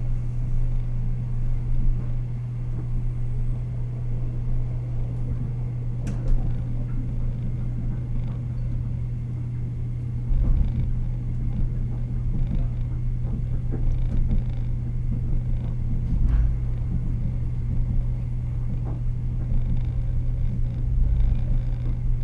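Interior running noise of a Taiwan Railways EMU100 electric multiple unit moving along the line: a steady low hum over the rumble of the wheels on the track, with a few short knocks.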